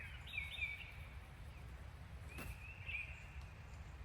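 Songbirds chirping in the woods, short high notes repeated several times, over a steady low rumble. A single sharp click about two and a half seconds in.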